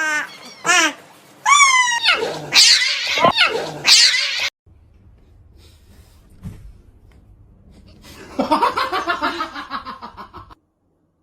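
Pet animals calling: loud, short pitched cries that swoop up and down over the first few seconds, stopping abruptly. After a quiet stretch, a second run of fast, pulsing cries starts about eight seconds in and cuts off suddenly.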